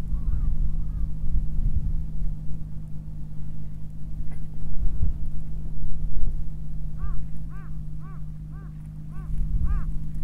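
A steady low hum with a low rumble underneath. About seven seconds in, a bird gives a quick run of short calls, each rising and falling in pitch, about two or three a second.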